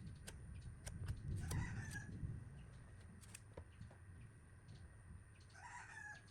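A rooster crowing twice, once about a second and a half in and again near the end, over scattered sharp clicks and a low rumble.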